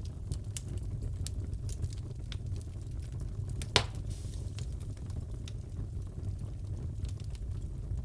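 Fireplace crackling: a steady low rumble of the burning fire with scattered small crackles and one sharper pop about four seconds in.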